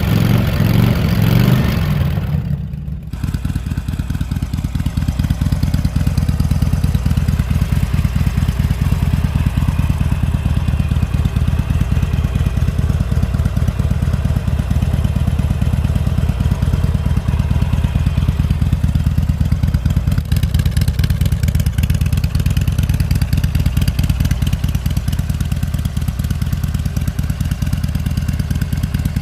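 Harley-Davidson Iron 883's air-cooled V-twin, breathing through a Falcon Double Groove aftermarket exhaust, revved briefly in the first couple of seconds, then settling to a steady idle.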